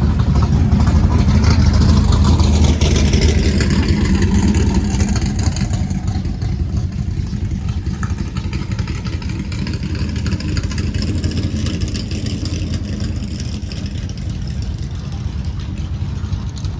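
A car engine running close by with a low, steady note, loudest over the first five seconds and then slowly fading.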